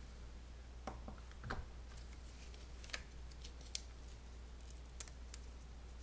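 Small plastic parts being handled: a few faint, scattered clicks and taps as a zip tie is worked through a PVC pipe rain cover and camera mount, over a steady low hum.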